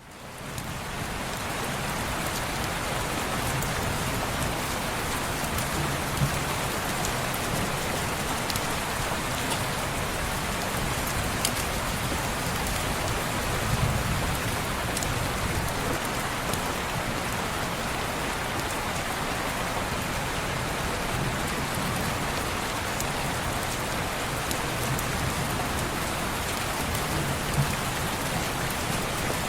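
Steady, heavy rain falling on window glass, fading in over the first half second. A few soft low rumbles and occasional brief sharp ticks sit under the rain.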